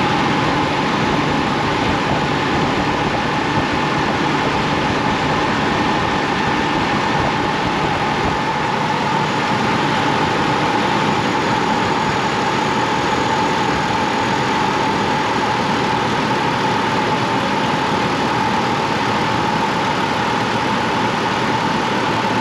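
Chevy Colorado's 3.7-litre inline-five engine running steadily with a new serpentine belt fitted. The belt runs without the noise the stretched old belt made.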